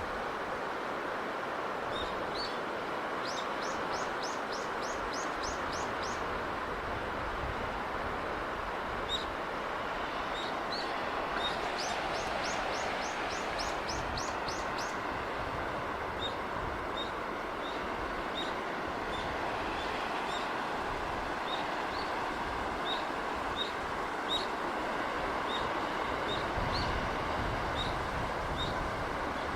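Steady rushing of a sea breeze, with small birds chirping over it: two quick trills of rapidly repeated high notes, then single chirps about once a second.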